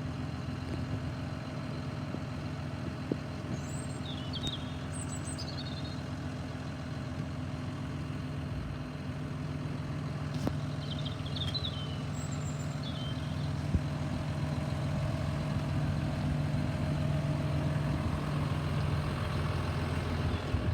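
A vehicle engine idling with a steady low hum, growing a little louder toward the end, with a few short bird chirps twice over it.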